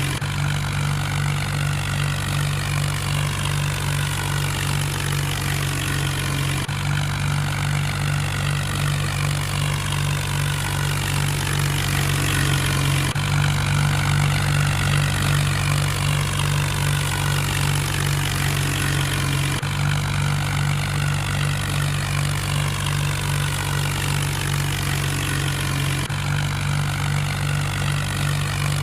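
Mahindra tractor engine running steadily at a constant speed, a deep continuous drone, while working the wheat harvest.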